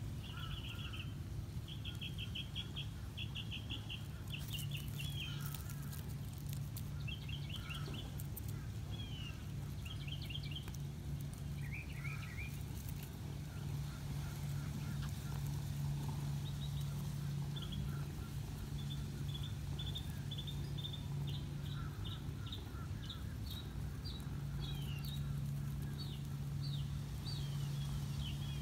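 Small birds chirping in quick runs of short high notes, repeated in clusters, over a steady low hum.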